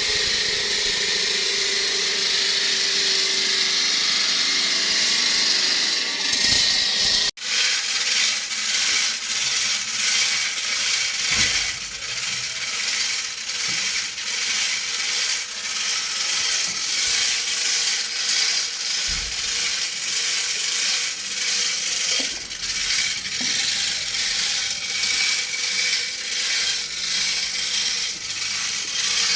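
Concrete cutting saw cutting concrete: a loud, steady, high-pitched grinding noise. It cuts out for an instant about seven seconds in, then carries on with an uneven pulsing.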